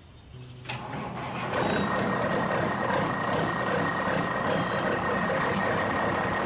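A vehicle running steadily: it starts about half a second in, builds over the next second, carries a constant high whine, and fades near the end.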